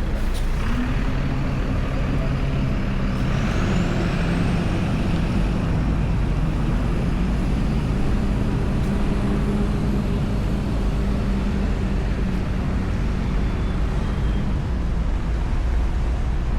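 A motor vehicle's engine running steadily in traffic, with a low hum and a thin high whine that rises in pitch from about three seconds in.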